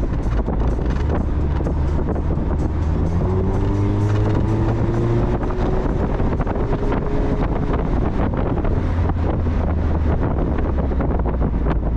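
Mazda Miata's four-cylinder engine running on the move, under steady road and wind noise. About three seconds in, the engine note climbs slowly in pitch for several seconds as the car accelerates.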